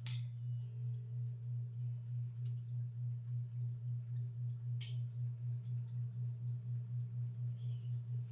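Old Primavera ceiling fan running, its motor giving a steady low hum that wavers in level about four times a second. Three light ticks sound over it: at the very start, about two and a half seconds in and just under five seconds in.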